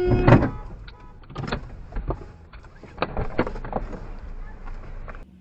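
Vehicle crash: a loud impact about a quarter second in, followed by scattered knocks and rattles over the next few seconds, then an abrupt cut just before the end.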